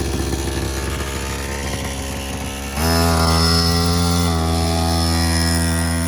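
50cc quad bike engine running steadily, then rising a little in pitch and getting louder about three seconds in as the throttle is opened, holding the higher note after that.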